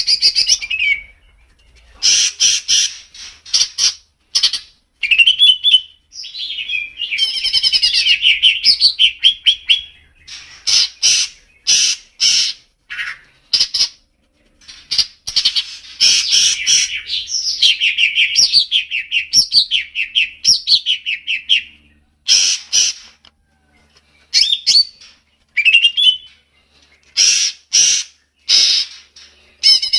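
Songbird singing in loud bursts of rapid chattering trills and sweeping whistles, each a second or a few seconds long, with short pauses between.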